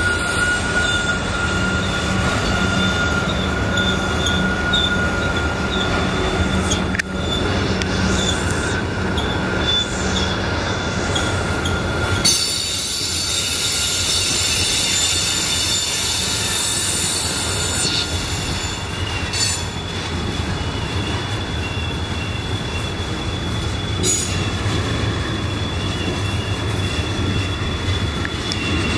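Freight cars of a mixed freight train rolling past close by, the steel wheel flanges squealing against the rail on the tight curve in steady high tones over a constant rumble and rattle of the cars.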